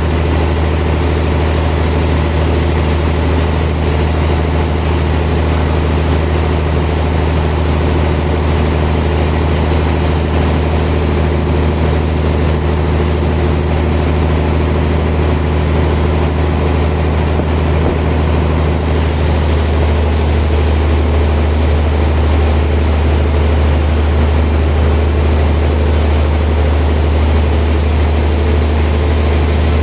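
Sawmill machinery running steadily with a loud, low drone; about two-thirds of the way through, the tone shifts slightly and a higher hiss comes in.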